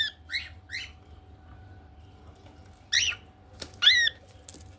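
Pet cockatiels calling: three short chirps in quick succession, then two louder squawks about a second apart.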